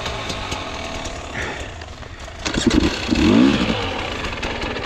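Dirt bike engine running, with two loud bursts of revving about two and a half and three and a half seconds in, as the rider gives it throttle to get the bike moving up the trail.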